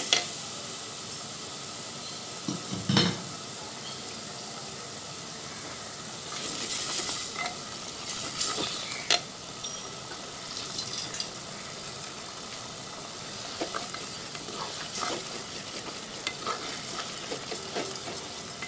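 Onion, garlic and spice paste sizzling steadily in hot oil in a clay cooking pot, with a wooden spatula stirring it and now and then knocking and scraping against the pot's sides. The masala is being fried down (koshano) before the vegetables go in.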